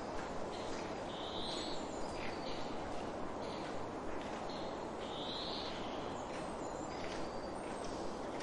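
Birds calling over a steady background hiss: a short, slightly rising call repeats about every three to four seconds, with fainter chirps in between.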